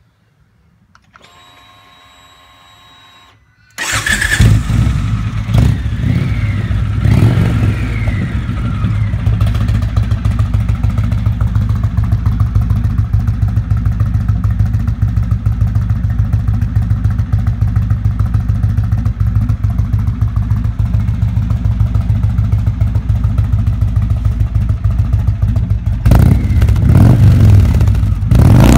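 A 2014 Indian Chief Vintage's air-cooled Thunder Stroke 111 V-twin starts about four seconds in after a short whine, is revved a couple of times, then idles with a steady rumble through its exhaust with the catalytic converter removed. It grows louder near the end.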